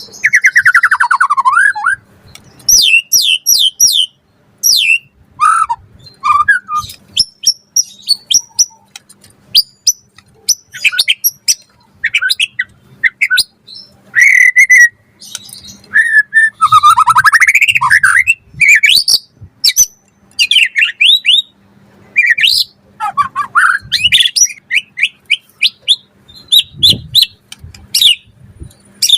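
White-rumped shama (murai batu) in full song: a long run of varied phrases of quick trills, rising and falling whistled glides and rapid repeated notes, with short gaps between phrases.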